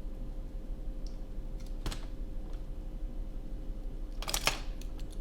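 A few light clicks and taps of small parts and tools being handled on a repair bench: a single click about two seconds in and a quick cluster of clicks near the end, over a steady low hum.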